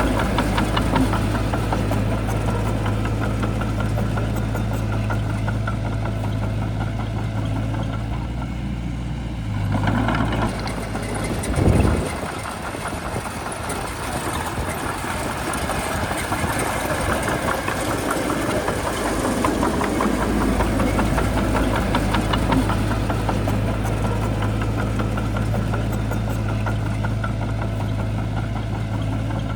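Heavy diesel engine of a bulldozer running steadily. About ten seconds in, the steady hum breaks off, with a brief louder surge near twelve seconds, and the sound turns rough and uneven. The steady running returns about twenty seconds in.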